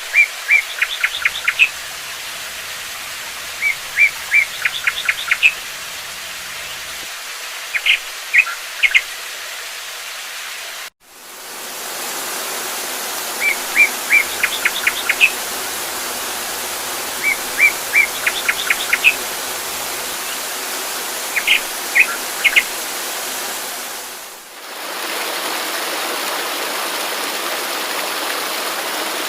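A small songbird repeating short phrases, a few chirps followed by a fast trill, in three groups, over a steady rush of flowing water. The sound cuts out briefly about a third of the way in, and the same bird phrases come again. Near the end the birdsong stops and only the steady water rush remains.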